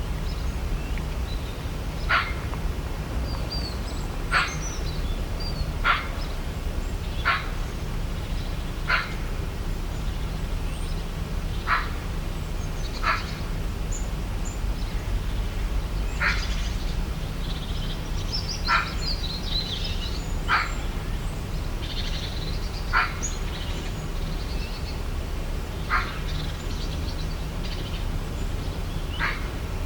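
Birds calling in natural ambience: a short, sharp call repeats about every two seconds, with higher chirps in between, over a steady low rumble.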